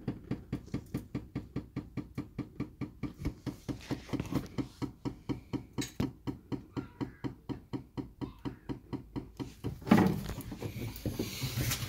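Toyota 2JZ-GE straight-six being cranked over on the starter, a steady rapid beat of about five pulses a second, until it fires and catches about ten seconds in with a louder burst.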